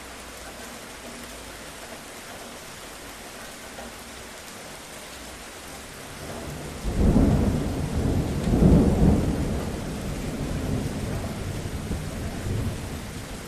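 Steady rain falling, then about halfway through a sudden clap of thunder that rolls in two loud peaks and slowly rumbles away.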